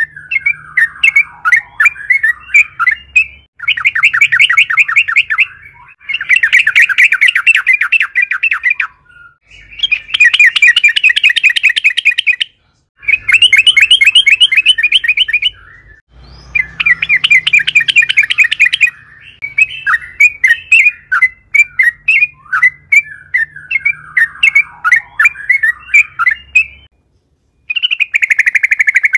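Yellow-vented bulbul (trucukan) in full song: loud, fast rolling trills of rapidly repeated notes, each lasting two to three seconds, alternating with looser chirping, warbled phrases.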